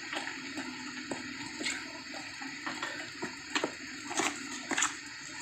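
Steady hiss of rain and wet road while riding, with scattered short clicks and ticks.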